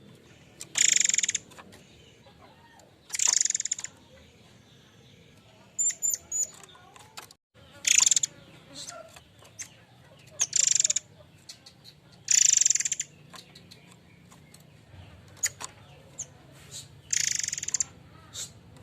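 A murai air mancur bird calling loudly: six harsh, hissing call bursts of about half a second each, a few seconds apart, with a quick run of thin high chirps about six seconds in.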